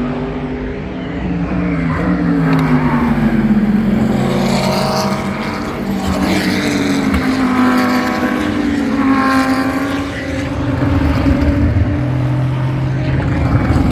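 GT race cars passing on track one after another, engines running at high revs, their pitch falling and rising several times as they go by and change gear.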